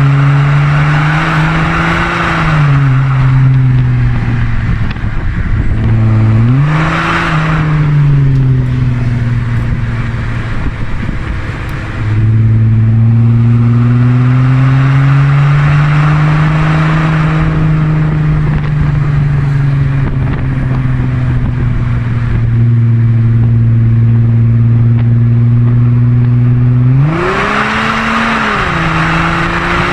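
The 3.0 TDI V6 diesel of an Audi A4 B7 with straight-piped exhaust, its note rising and falling, then holding steady for long stretches. It climbs briefly in pitch about a quarter of the way in and again near the end.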